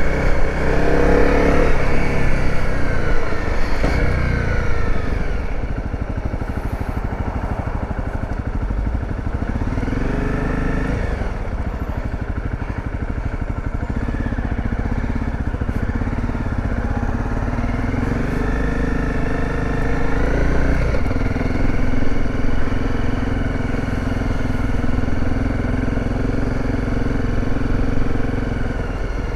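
Dirt bike engine running under the rider, its pitch rising and falling as the bike speeds up and slows through the gears, then holding steady in the last several seconds.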